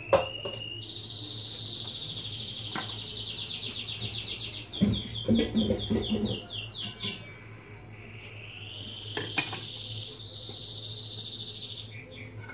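A bird singing in long high-pitched phrases: a held tone, then a run of rapid repeated notes about halfway through, then another rising held phrase. Kitchen utensils clink against dishes, with a sharp click right at the start and a short clatter in the middle, as a whisk is set into a small saucepan.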